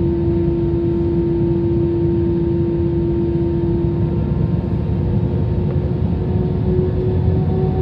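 Jet airliner engines heard from inside the passenger cabin: a steady, loud low rumble with a hum whose pitch rises slightly from about halfway through.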